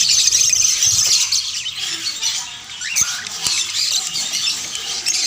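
A flock of small birds chirping and chattering together, a dense run of overlapping high squeaks and short calls.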